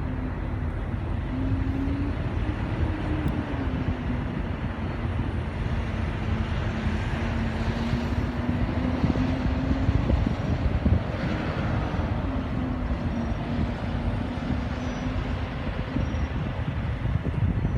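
Steady vehicle noise: a continuous low rumble with a faint drone that slowly wavers in pitch.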